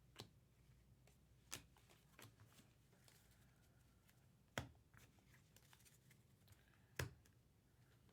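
Trading cards being handled and flipped through, heard as faint scattered clicks and taps, the two loudest about four and a half and seven seconds in.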